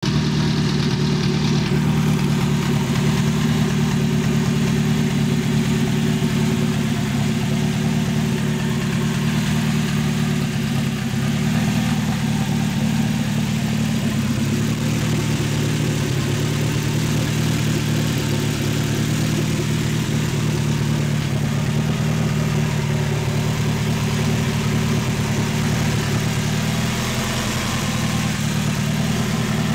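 Opel C20LET turbocharged 2.0-litre four-cylinder engine in a Yugo drag car, idling steadily.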